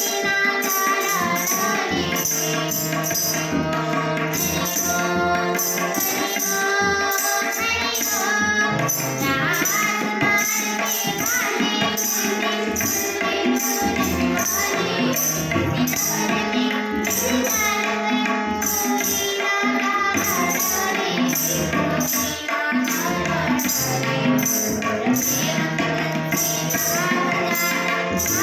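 A Hindi devotional-style song: a voice singing over melodic accompaniment, with a steady jingling percussion beat.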